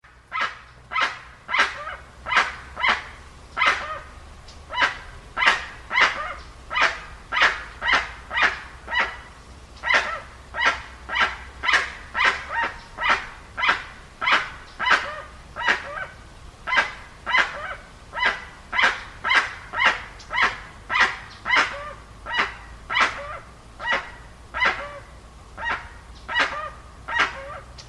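Dusky-legged guan (jacuguaçu) calling: a long, even series of short, harsh, barking calls, nearly two a second.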